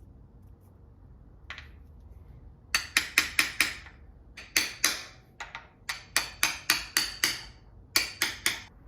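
Hand-tool work on an engine during assembly: about twenty sharp taps or clicks, each with a short ring. They come in several quick runs at roughly four or five a second.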